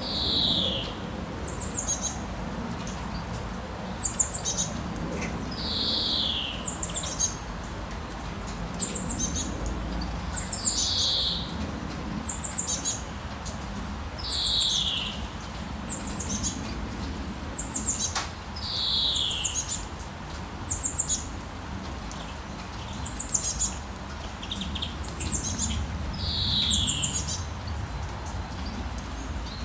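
Birds calling over and over: a slurred note falling in pitch every few seconds, alternating with quick clusters of high, falling chirps, over a steady low background rumble.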